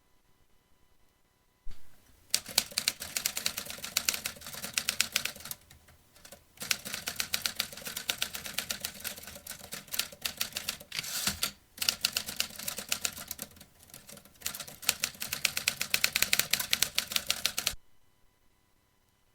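Vintage typewriter being typed on: rapid runs of key strikes in four spells with brief pauses between them, starting about two seconds in and stopping suddenly near the end.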